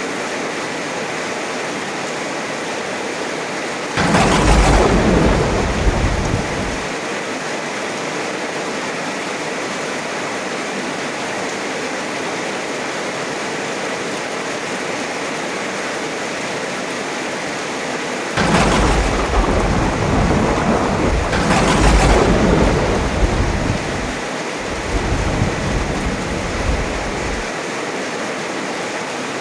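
Steady heavy rain with thunder: a sudden clap about four seconds in that rumbles for a few seconds, then past the middle a longer rolling peal with two cracks a few seconds apart, dying away in low rumbles.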